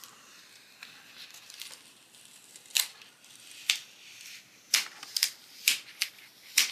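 Paper and planner supplies being handled at a desk: faint soft rustling, then about seven short, light clicks and taps at uneven intervals through the second half.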